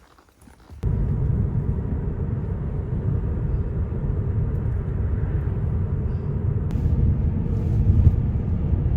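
Loud, steady low rumble without any clear tone that starts abruptly about a second in.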